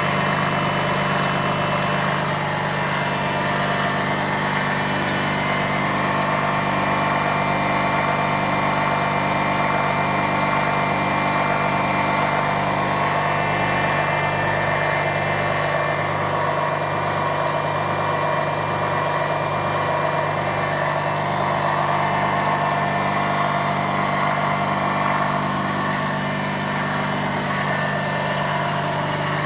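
High-voltage impulse motor (the 'Liberty engine') running steadily with a constant hum, its pitch unchanging, and a light pulsing in the low hum partway through.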